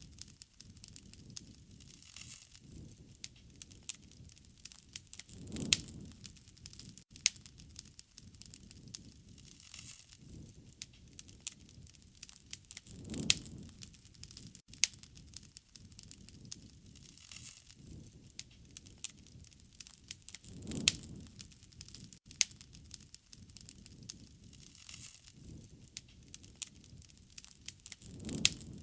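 Wood fire crackling and popping, with frequent sharp snaps and a soft low whoosh of the flames swelling up about every seven seconds.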